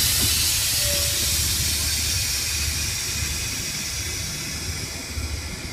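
El Chepe passenger train heard from aboard while moving: a loud rushing hiss of air over a steady low rumble, the hiss slowly fading.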